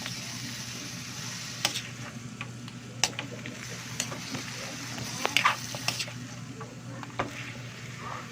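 Chicken pieces sizzling in a cooking pot as they are stirred, with a sharp clink or scrape of the stirring utensil against the pot every second or so.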